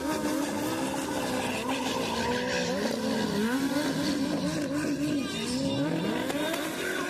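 Motorcycle engine revving hard, its pitch rising and falling several times.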